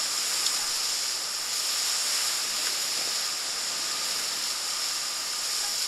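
Steady rushing hiss of white water in a river rapid.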